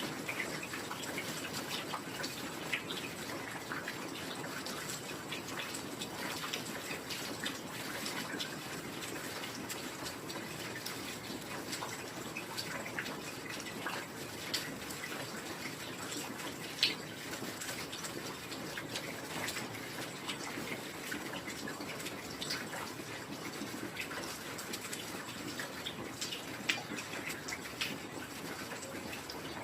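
Heavy rain falling steadily: a dense, even hiss of rain with scattered sharper drop hits, a few of them louder than the rest.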